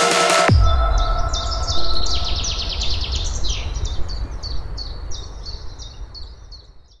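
Music breaks off about half a second in, and songbird song takes over: a quick run of short, repeated chirps over a low, steady outdoor hiss and rumble, fading out near the end.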